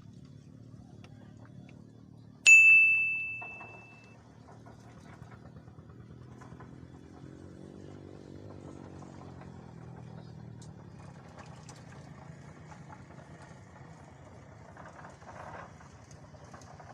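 A single sharp metallic ding about two and a half seconds in, ringing out on one clear tone and fading over about a second and a half, over a low steady hum.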